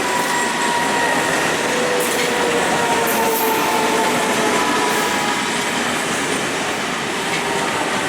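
A train passing close by: loud, steady rolling noise of wheels on rail, with thin steady ringing tones running over it.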